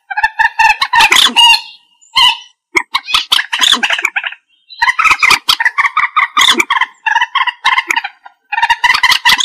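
Common moorhen calling: fast runs of short, harsh repeated notes in bouts, with brief pauses between them.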